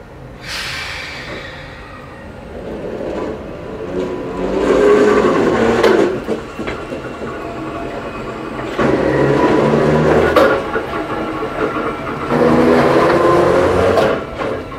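Ohmi Railway 220-series electric railcar passing slowly over snowy track, its wheels and running gear rumbling, swelling louder three times before it fades as the car moves off.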